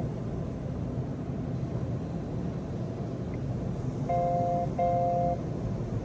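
Car's electronic warning chime beeping twice about four seconds in, each beep a short two-tone note, over a steady low rumble.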